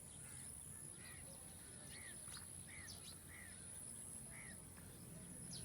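Faint outdoor birdsong: one bird repeats a short arched chirp about once a second, and thin, high, falling notes come in between. A steady high-pitched whine runs underneath.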